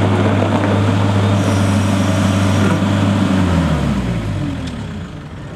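New Holland L170 skid steer loader's diesel engine running steadily. About three and a half seconds in, its pitch slides down and the sound fades away as the engine slows.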